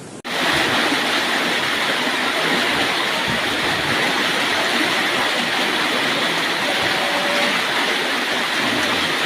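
Floodwater rushing steadily through a narrow residential alley, a continuous loud rush of water that starts abruptly just after the start.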